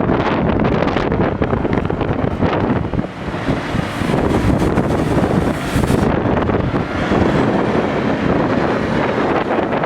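SANY SAG160-5 motor grader working, its diesel engine running steadily, with wind buffeting the microphone.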